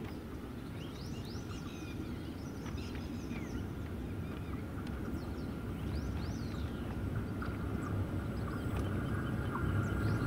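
Approaching electric express train's low rumble on the rails, growing steadily louder, with birds chirping over it.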